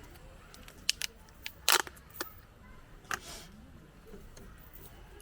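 A handful of sharp clicks and knocks of small hard objects being handled, the loudest a brief clatter about one and a half seconds in, then a single knock about three seconds in.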